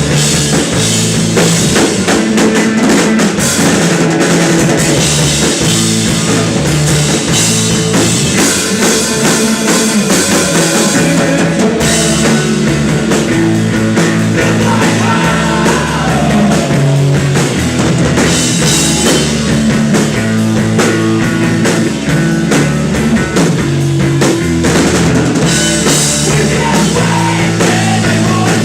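Live rock band playing loudly and steadily: a full drum kit with bass drum, bass and guitars, in a passage with no singing.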